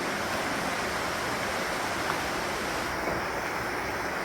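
Steady rushing of a waterfall splashing inside a cave.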